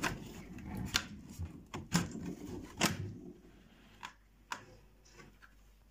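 Small hingeless door on a homemade wooden faux fireplace being worked open by hand: a few sharp clicks and knocks, three loud ones about a second apart, then two fainter ones.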